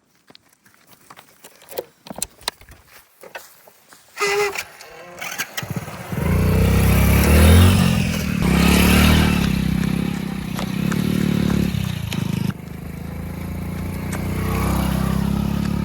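A few clicks and knocks, then a short whine, and about six seconds in a diesel engine starts running loudly and steadily. Its level steps down a little about twelve seconds in.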